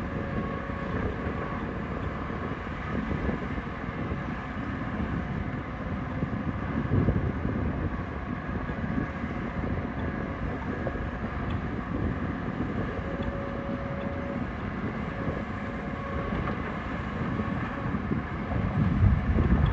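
Heavy diesel earthmoving machinery running steadily, a dense low engine rumble that swells louder near the end.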